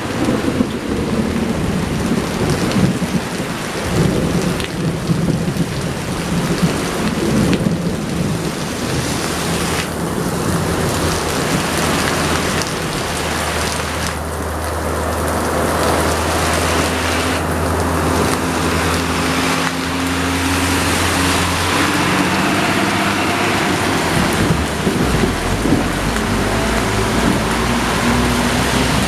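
Steady heavy rain hiss with the low drone of a diesel truck engine labouring up a hill. The engine tone holds steady and then climbs slowly through the middle and latter part.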